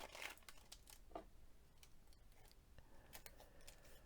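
Faint rustling and crinkling of paper being handled, with scattered light clicks.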